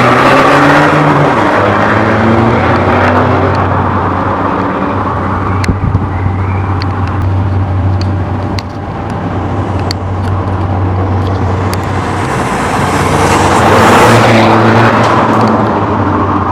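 Straight-piped Seat Leon 2.0 TDI four-cylinder turbodiesel running loud, its note falling away at first, then holding a steady drone with a few sharp ticks, and swelling up again about three-quarters of the way through before easing off.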